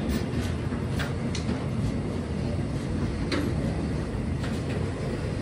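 Freight train of fuel tank wagons rolling past: a steady low rumble of steel wheels on the rails, broken by sharp clacks as the wheels cross rail joints, with one louder clack about three seconds in.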